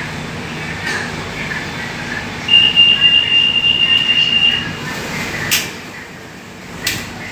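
MRT Blue Line train's door-closing warning: a steady high beep for about two seconds, then a sharp knock and a second one near the end as the sliding doors close, over the car's steady background hum.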